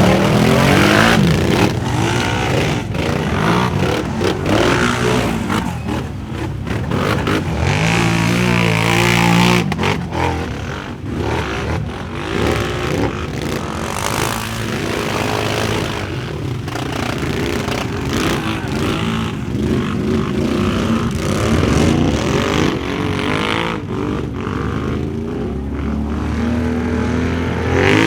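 4x4 ATV engines revving hard, the pitch climbing and dropping again and again as the quads race through mud, with short knocks and clatters mixed in.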